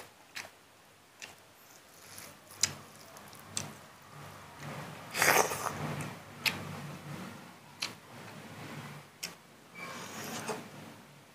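Close-up eating sounds of a man chewing a mouthful of pork, greens and rice eaten by hand, with scattered sharp wet mouth clicks and smacks.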